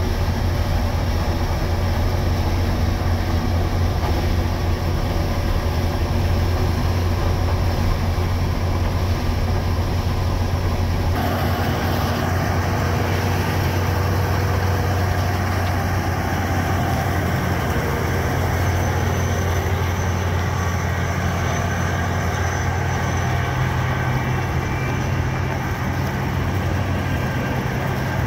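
International Harvester 1460 combine running steadily under harvest load, a constant low diesel hum with a dense mechanical clatter over it. Its tone changes abruptly about eleven seconds in, with more high-pitched noise.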